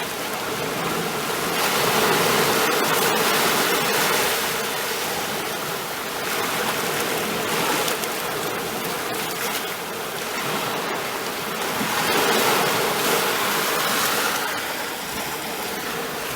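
Ocean waves washing onto the shore: a continuous rushing wash that swells and eases three times, about every five seconds.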